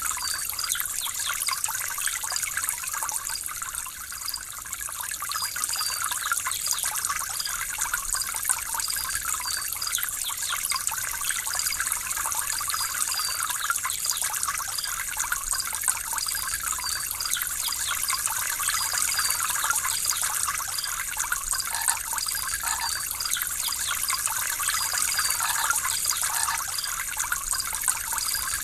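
Water trickling and splashing steadily, used as a relaxing interlude between bird songs. Faint short high chirps recur now and then above it.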